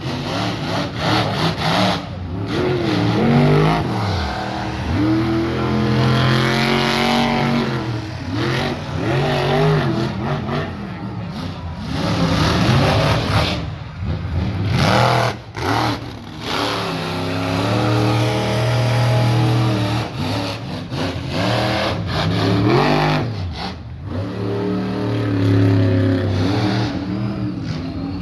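Monster truck engine revving hard again and again, its pitch climbing and falling with each blip of the throttle, with a few brief dropouts along the way.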